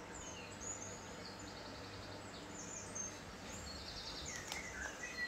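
Faint birds chirping: scattered short high chirps and two quick trills, over a low steady background hum.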